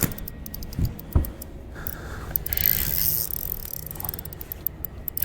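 Fishing reel clicking in quick irregular runs of ticks as a big fish is played on the line, over a faint low steady hum, with a couple of dull thumps about a second in.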